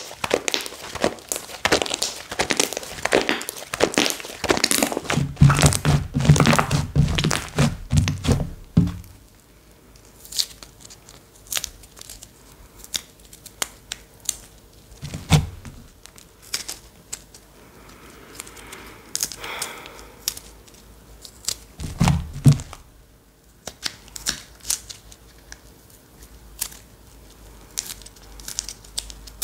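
Slime being squeezed, stretched and pressed by hand, with dense crackling and popping clicks that thin out after about nine seconds into scattered pops. Dull low thuds come in a run about five to nine seconds in and twice more later.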